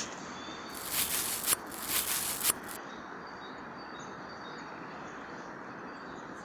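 Forest ambience: a few loud rustling, crunching strokes, like steps through leaf litter and undergrowth, in the first few seconds, then a steady soft background with faint, short bird chirps.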